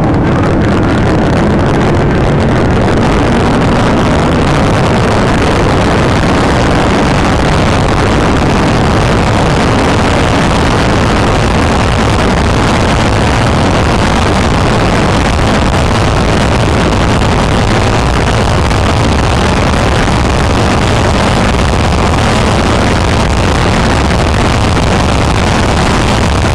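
Police car driving, a loud, steady mix of engine, tyre and wind noise.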